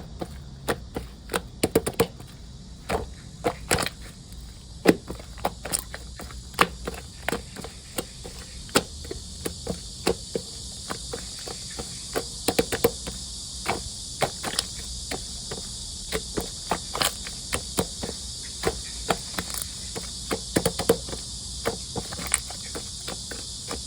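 Slime being squeezed and poked, giving irregular sticky clicks and small air-bubble pops, several a second at times, over a steady high background hiss.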